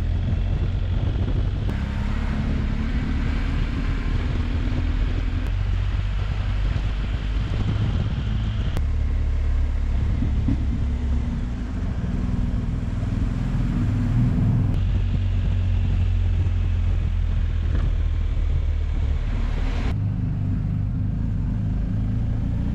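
BMW R 1250 GS Adventure boxer-twin motorcycle being ridden, a steady engine rumble mixed with wind and road noise, cut together from several stretches of riding.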